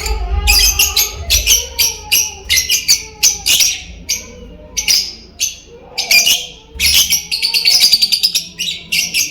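Lovebirds giving shrill, chattering chirps in quick runs of several calls a second, with short gaps between runs.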